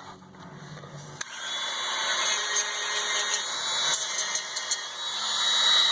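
A small power tool running with a steady whir that starts about a second in and grows louder.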